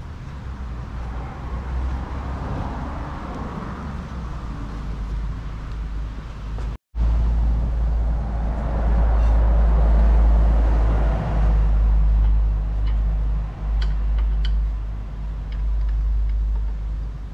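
A car running: a loud, steady low rumble with a hiss above it that swells and fades. The sound drops out for a moment about seven seconds in, then comes back louder.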